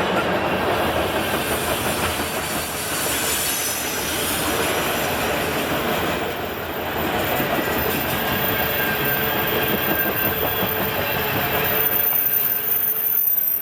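CN freight train's cars rolling past at very close range, wheels clattering on the rails with thin, high-pitched wheel squeal.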